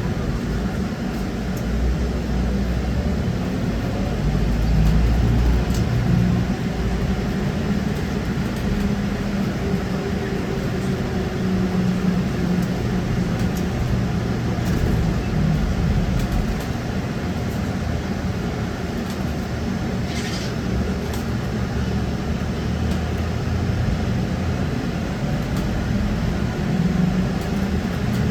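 Steady running noise inside a moving trolleybus: road and rolling rumble with a faint electric motor whine that drifts up and down in pitch.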